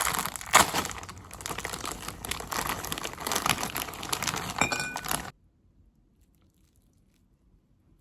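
Dense crackling and crinkling noise made of many small clicks, cutting off suddenly about five seconds in.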